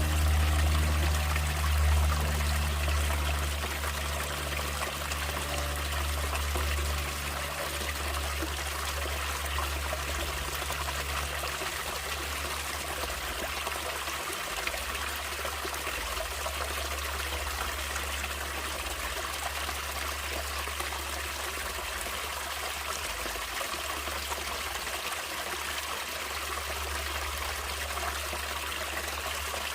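Stream water running and trickling steadily, with a continuous rushing hiss and a deep low rumble underneath. A few low steady tones fade out over the first several seconds.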